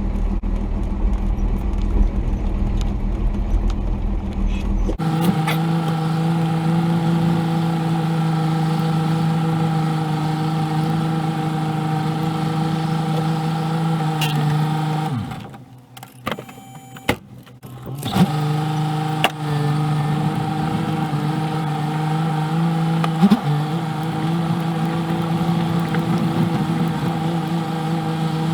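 Cummins diesel engine of a 1990 Dodge D250 pickup running at a steady speed under way. For the first few seconds a low rumble covers it. About halfway the sound drops away for a couple of seconds, then the engine note returns.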